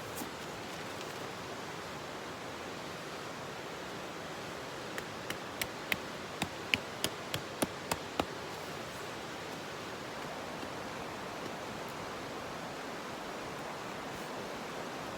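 A steady rushing outdoor noise, with a quick run of about a dozen sharp knocks, about four a second, a third of the way in.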